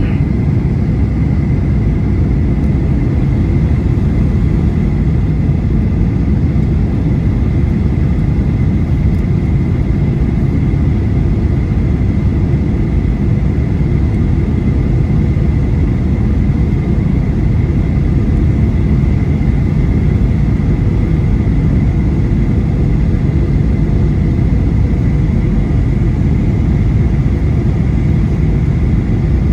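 Steady cabin noise inside a Boeing 737-800 in flight: a low rumble of airflow and the CFM56-7B engines, with a thin high tone held throughout.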